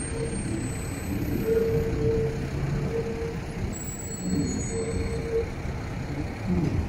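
Steady low rumble of a train moving new R211T subway cars, with a mid-pitched hum that fades in and out every second or so.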